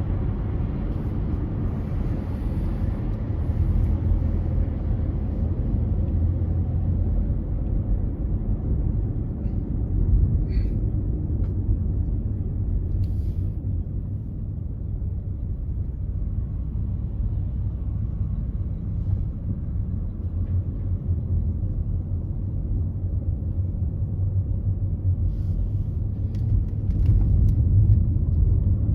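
Car driving on a freeway: steady low rumble of road and engine noise, with a few faint ticks along the way.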